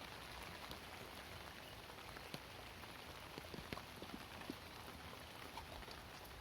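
Light rain pattering: a faint steady hiss with scattered drips.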